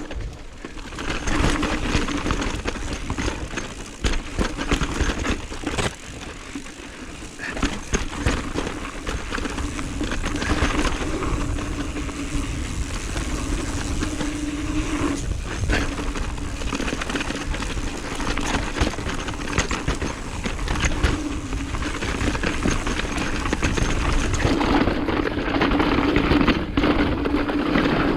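Mountain bike riding fast down a rough dirt trail, heard from the rider's GoPro: wind rush on the microphone, tyre noise and frequent clattering knocks as the bike hits roots and rocks. A buzz comes and goes in stretches, typical of the rear freehub ticking while the rider coasts.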